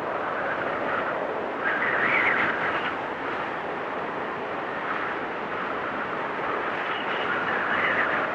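Storm wind blowing steadily, swelling in gusts about two seconds in and again near the end, with a thin high whistle coming in over the last second or so.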